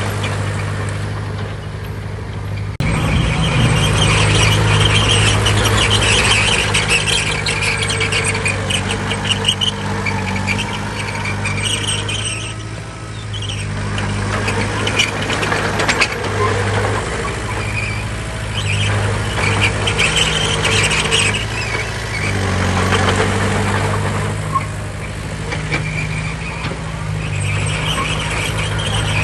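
Bulldozer's diesel engine running under load, its note rising and falling as it works, with intermittent high metallic squealing.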